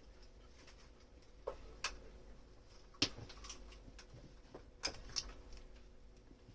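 Dishes and kitchenware being handled, with about six light clinks and taps spread irregularly, the sharpest about halfway through.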